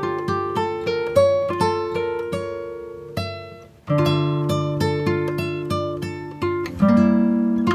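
Background music: plucked acoustic guitar playing a melody of picked notes over a bass line, with a brief pause a little under four seconds in.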